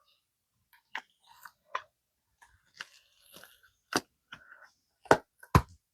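Silicone mold being flexed and peeled off a cast polyurethane resin figurine: scattered crackling and sticky clicks, with two sharper snaps near the end.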